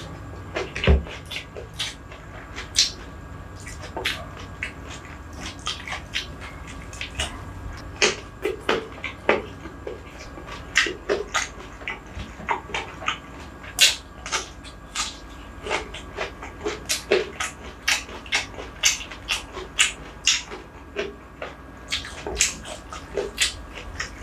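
Close-miked eating sounds: chewing and lip-smacking with a mouthful of rice, a run of sharp, irregular mouth clicks a few times a second.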